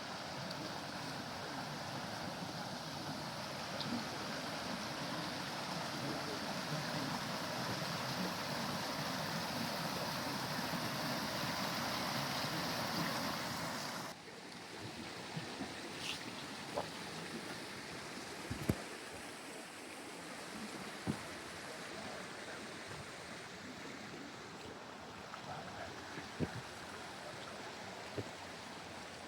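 Flowing stream water rushing steadily. About halfway through it drops suddenly to a quieter rush, with a few faint clicks.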